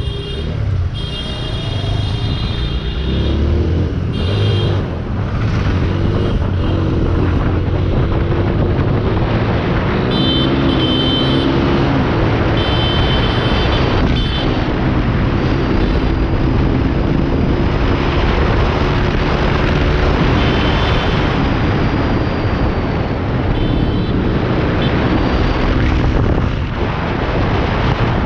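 Motorcycle riding along a road, its engine note rising and falling under a heavy rush and rumble of wind buffeting the microphone.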